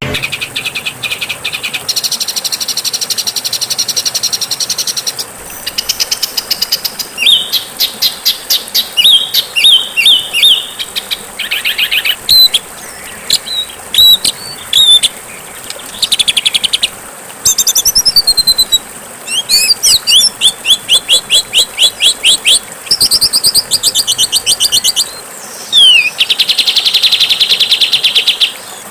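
Songbirds singing phrase after phrase: fast rattling trills, harsh chattering runs and a few sweeping whistled notes, with short pauses between phrases. This is a 'masteran', a compiled recording of champion songbird song used to teach caged birds.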